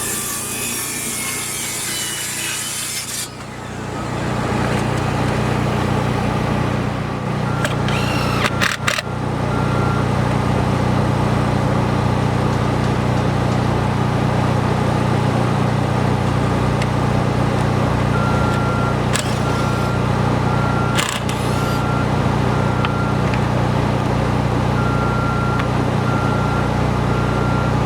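Heavy construction machinery running steadily, with a reversing alarm beeping in runs, a few sharp knocks, and a harsh rasping tool noise for the first few seconds.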